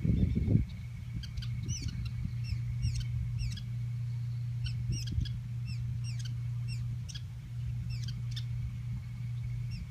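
Small birds chirping: many short, high, quick calls in clusters, busiest in the first few seconds and again around the middle and near the end. A steady low hum runs underneath, with a few dull knocks right at the start.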